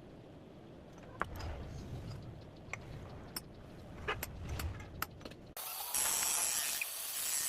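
Metal parts clinking and tapping, several sharp clicks over a low rumble, then about five and a half seconds in an abrupt change to a louder steady hiss.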